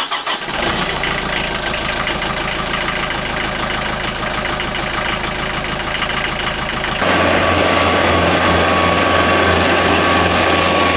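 SAME 35 hp turbocharged diesel tractor engine running just after being started, its note changing abruptly about seven seconds in. This is the engine that won't stay running: it starts and then dies.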